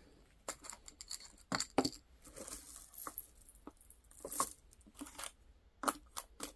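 Costume jewelry clinking and rattling as hands sort through an old jewelry box: a run of irregular sharp clicks and metallic clinks, starting about half a second in.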